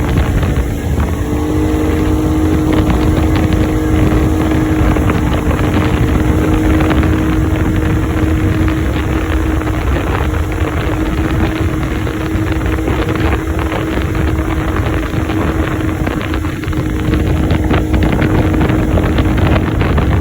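Towing motorboat's engine running at speed with a steady drone, stepping up slightly in pitch about a second in, under heavy wind buffeting on the microphone.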